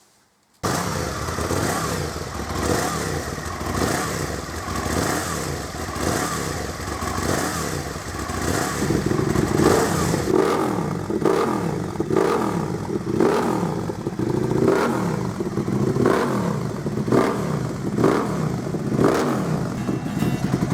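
Aprilia RSV Mille's 60-degree V-twin engine, breathing through a short Delkevic stainless oval race can, starting up suddenly and being revved over and over, its pitch rising and falling about once a second in the second half.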